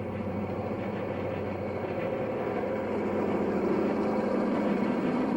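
F-unit diesel locomotive leading a freight train, its engine running steadily and growing gradually louder as the train approaches.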